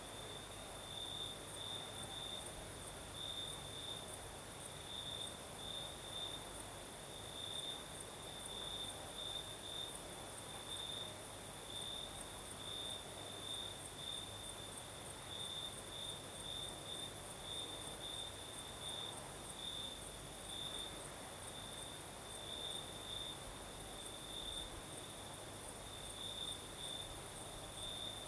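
Crickets chirping at night: one steady, evenly pulsing trill sits high, with a higher, denser insect buzz above it, both unbroken throughout.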